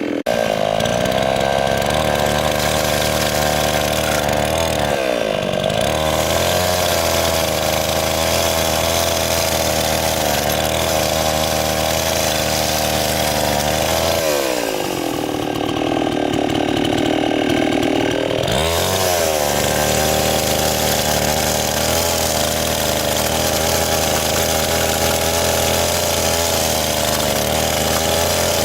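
Two-stroke chainsaw running steadily at speed. Its pitch dips briefly about five seconds in, then drops for about four seconds around the middle and climbs back up.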